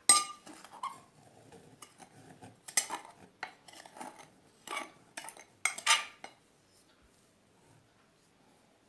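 A spoon and a mixing bowl clinking and clattering as sugar and oil are put together for mixing: one sharp clink right at the start, then several sharp clatters over the next few seconds.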